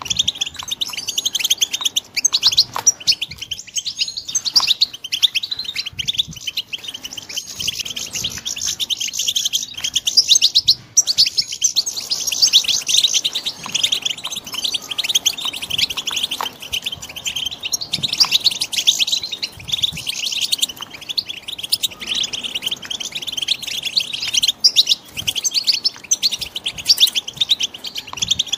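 Young European goldfinches twittering: a dense, unbroken run of rapid high chirps.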